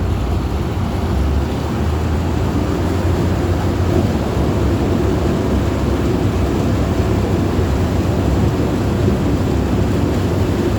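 Amphibious duck tour boat's engine running steadily while under way on the river, heard from on board as a constant low drone.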